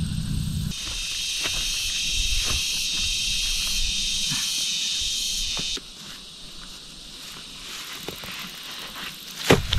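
A high, steady chorus of insects shrilling, which cuts off suddenly about six seconds in and leaves quieter forest ambience, with scattered light clicks of footsteps or handling throughout. A single sharp knock sounds just before the end.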